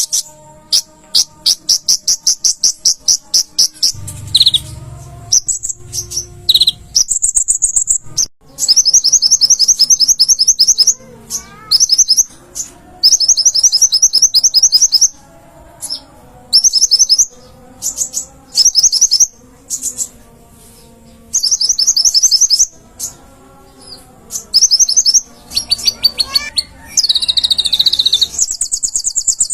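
Kolibri ninja (konin), a small sunbird, singing: repeated high, very fast trilled phrases of a second or two each, separated by short pauses, with a faint lower warbling beneath.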